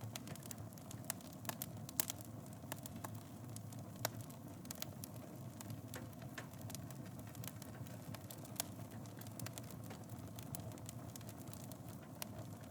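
Wood fire burning in a fireplace: a steady low rumble of flames with irregular sharp crackles and pops, two of them louder, about two and four seconds in.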